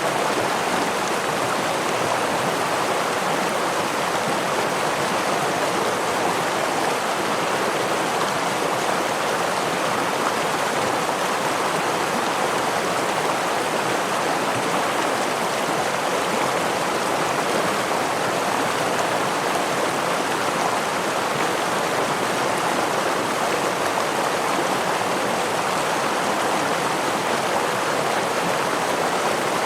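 Steady rushing of a stream's flowing water, with no change in level throughout.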